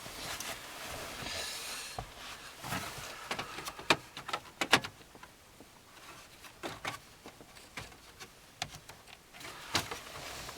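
Hands working plastic dashboard trim in a van: scattered sharp clicks and knocks of plastic pieces, with light rustling in the first two seconds.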